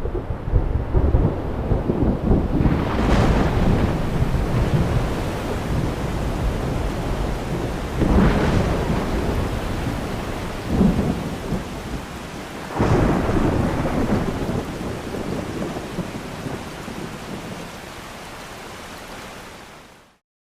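Thunderstorm sound effect: steady heavy rain with three rolls of thunder swelling in about five seconds apart, then fading out near the end.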